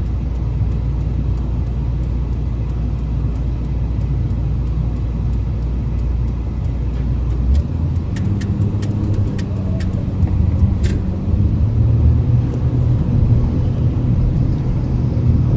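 Car driving noise heard from inside the cabin: a steady low rumble of engine and road, which changes about halfway through to a somewhat higher hum. A faint regular ticking runs over it.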